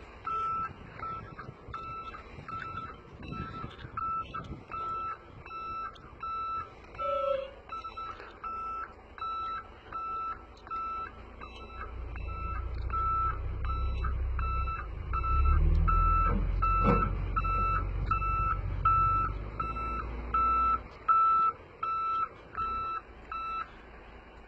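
A container truck's electronic warning beeper sounds steadily, about twice a second, one pitch each beep, and stops shortly before the end. Under it the truck's diesel engine rumbles, swelling in the middle and easing off again.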